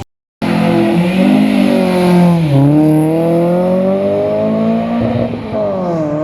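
Car engine accelerating hard, its pitch climbing, dropping at an upshift about halfway through, then climbing again before another drop near the end.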